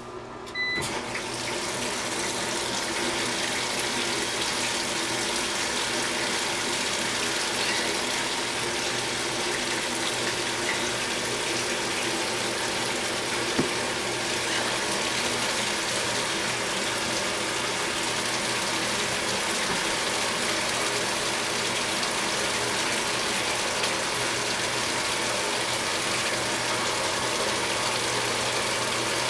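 Short beep from the electronic controls of a 2015 Speed Queen 8 Series top-load washer. Then water rushes steadily into the tub as it fills for a warm wash, starting about a second in.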